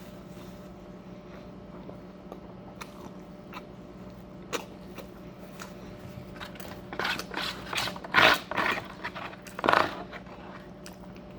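A person eating close to the microphone: soft scattered mouth clicks of chewing, then a run of louder bites and chews about seven to ten seconds in.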